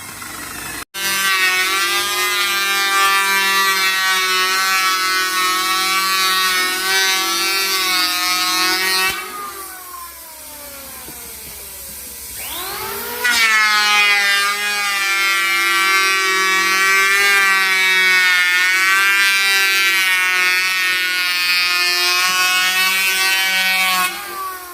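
Electric woodworking power tool running in two long runs with a steady motor whine. About nine seconds in it winds down, falling in pitch, then spins back up a few seconds later for a second long run that stops near the end.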